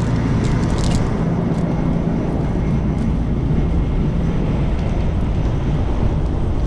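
Strong, gusting wind rushing steadily over the camera microphone, with a heavy truck's diesel engine running underneath.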